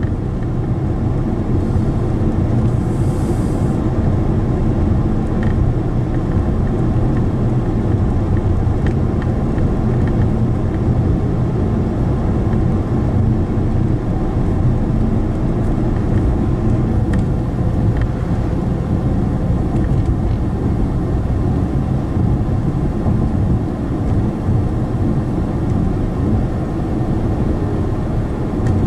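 Steady road and engine noise from a moving car, heard inside the cabin as a constant low rumble.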